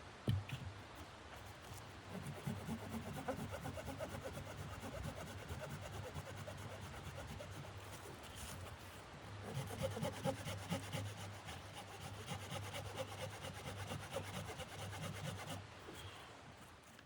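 Repeated rasping, scraping strokes, easing off briefly about halfway and then resuming.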